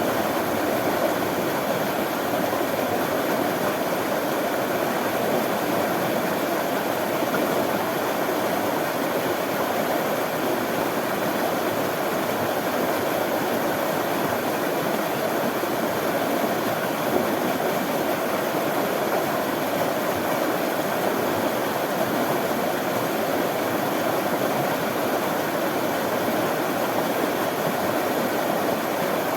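Running water rushing in a steady, unbroken stream.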